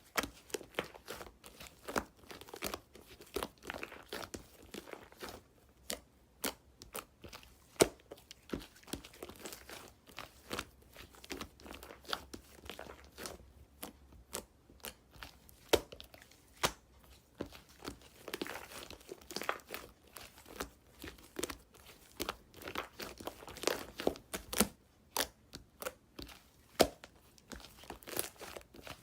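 Apricot bread being torn apart by hand close up: irregular crackly tearing and crinkling with many sharp clicks.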